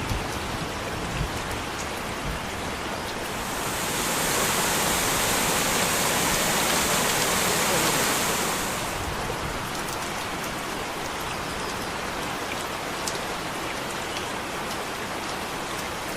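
Steady rush of falling water from a waterfall, a hiss that swells louder and brighter for about five seconds starting about four seconds in, then settles back.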